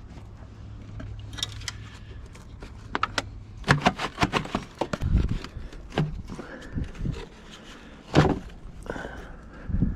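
Hand-worked clicks, clacks and knocks of hard parts being handled and pried loose. A quick run of them comes a little before halfway, then a few single heavier knocks later on.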